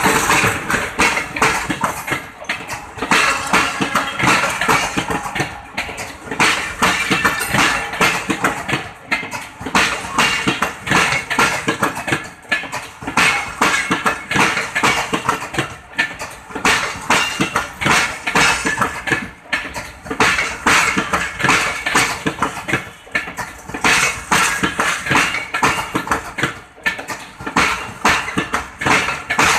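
Bangladesh Railway passenger coaches passing at close range: a dense, irregular clatter of steel wheels over the rails and crossing.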